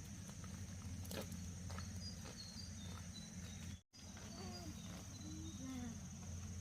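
Steady high-pitched insect chorus, as of crickets, with scattered faint clicks and a few faint short chirping calls; the sound cuts out completely for an instant about four seconds in.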